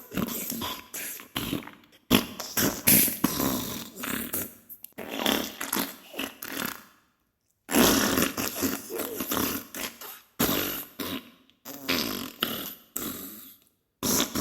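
Diarrhea sound effect: a run of short, sputtering fart bursts, with a brief silent pause a little past the middle.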